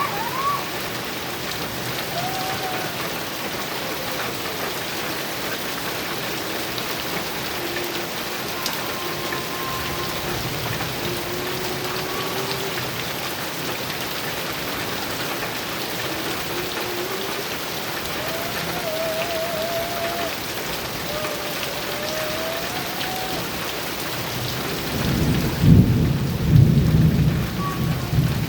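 Heavy rain falling steadily on a metal roof, with a loud low rumble of thunder rolling in about three seconds before the end.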